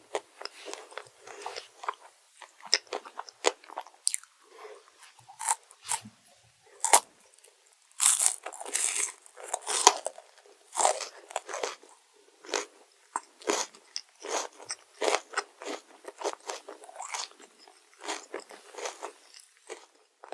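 Close-miked biting and chewing of crunchy chocolate desserts: a run of irregular sharp crunches, thickest and loudest around the middle.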